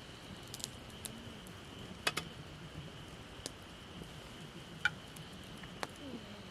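Dry twigs crackling and snapping in sparse, sharp pops, the loudest a quick double snap about two seconds in and a single one near five seconds.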